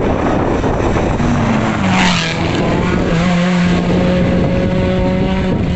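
Rally car engine at full throttle passing close by, its note dropping about two seconds in as it goes past with a brief loud rush, then holding steady until it cuts off near the end; wind buffets the microphone.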